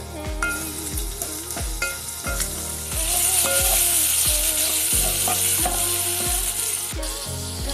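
Onions and chopped tomatoes frying in oil in an aluminium pot and being stirred with a wooden spoon. The sizzle turns loud about three seconds in and eases near the end, over background music with a steady beat.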